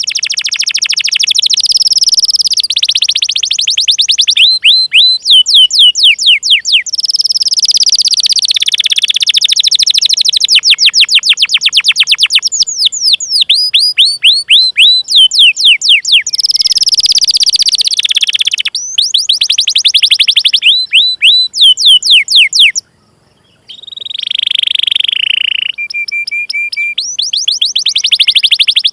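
Domestic canary singing loudly: long runs of rapidly repeated, falling 'cuit' notes alternating with fast rolled trills, with a short break about three-quarters of the way through.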